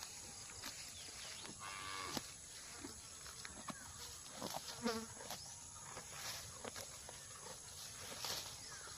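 A cow grazing: a string of short, sharp tearing and crunching sounds as it pulls up and chews grass, with brief lowing calls about two and five seconds in.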